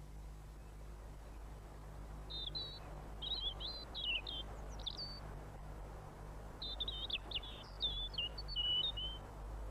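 Male European robin singing: two separate phrases of high, thin, warbling song, the first starting about two seconds in and the second near the end. The song marks his territory.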